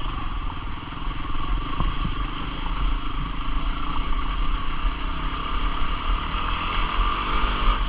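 Single-cylinder four-stroke 250 cc dual-sport motorcycle engine running steadily while riding a trail.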